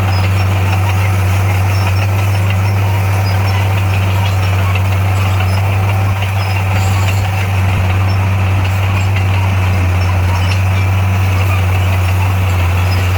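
Heavy construction-machine diesel engine running steadily with a constant low drone.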